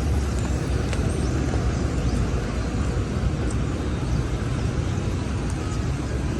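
New York street ambience: a steady low rumble of traffic, with a few faint clicks over it.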